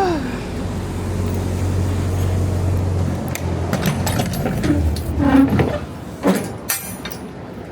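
A vehicle engine running with a steady low hum that fades about five seconds in, with a short falling squeak at the start and several knocks and clatters in the second half.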